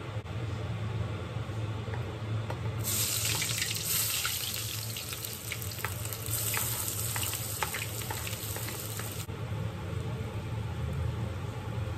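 Kitchen tap running into a sink for about six seconds, starting about three seconds in and shutting off abruptly. A steady low hum runs underneath.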